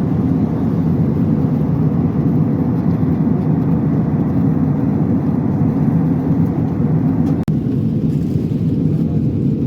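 Steady low roar of airliner cabin noise, cutting out for an instant about seven and a half seconds in.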